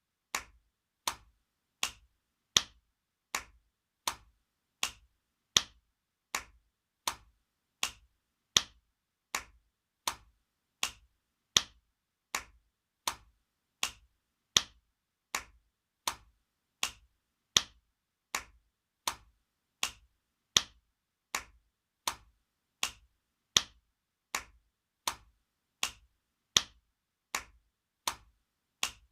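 Spanking sound effect: a sharp hand slap repeated at an even pace, about four every three seconds, some strikes louder than others, each dying away quickly.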